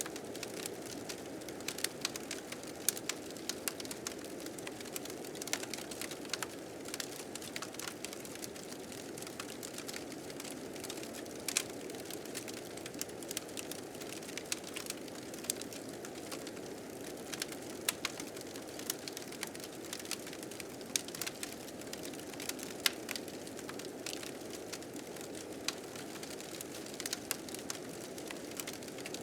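A wood fire crackling with many irregular sharp pops, over the steady low rush of blizzard wind.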